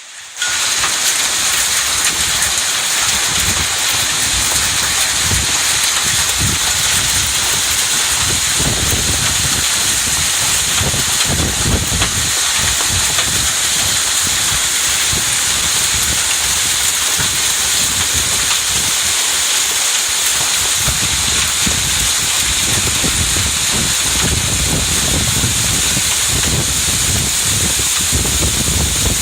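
Heavy sudden summer downpour: a dense, steady hiss of pouring rain that starts abruptly about half a second in, with an uneven low rumble underneath.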